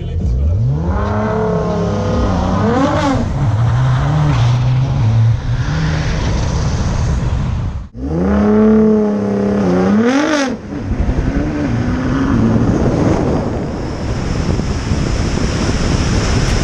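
Twin-turbo sports car accelerating hard from a launch, its engine note climbing and dropping in steps through quick gear changes. The sound cuts off about eight seconds in and a second run climbs the same way. After that the engine note blurs into a steady rush of wind and road noise at speed.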